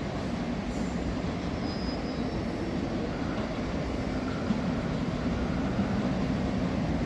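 Electric commuter train approaching along the station track: a steady low rumble that grows slightly louder as it comes in.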